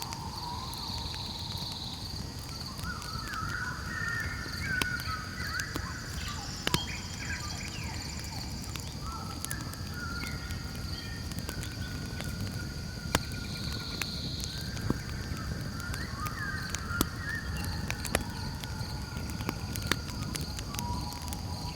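Campfire crackling with scattered sharp pops over a low steady rumble. A steady high insect drone runs beneath, and animal calls come and go through the middle.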